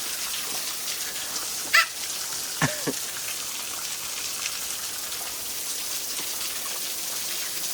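Waterfall rushing and spattering as a steady hiss of falling water. Two brief louder sounds stand out near two and three seconds in, the second falling in pitch.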